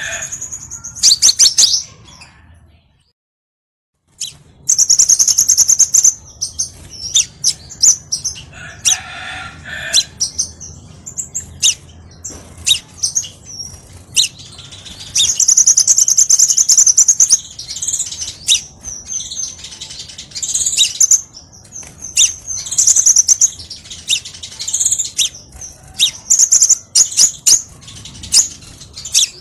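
Crimson sunbird song: rapid, high, sharp chirps and trilling phrases in repeated bursts. The sound drops out completely for about a second and a half, three seconds in.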